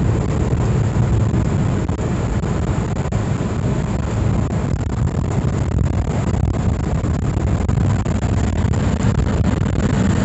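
Suzuki Super Carry mini truck on the move, its engine and road noise running steadily.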